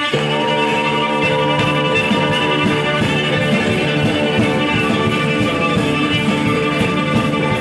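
A live rock band plays the instrumental opening of a song, with drums keeping a steady beat under held, sustained instrument tones, just after a count-in.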